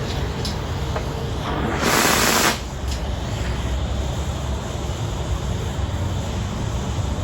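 Oxy-fuel cutting torch running with a steady roaring hiss, with a louder burst of hiss for about half a second around two seconds in.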